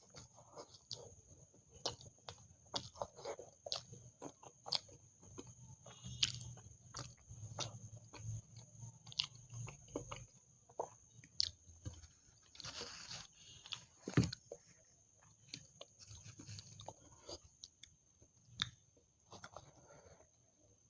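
Close-miked eating: chewing with wet mouth smacks and occasional crunches, irregular sharp clicks throughout, the loudest a little past the middle.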